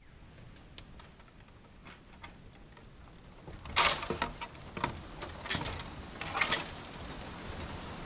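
Faint scattered ticks, then from about four seconds in a run of sharp, irregular knocks and clatter, about five strikes, from hand work on a post.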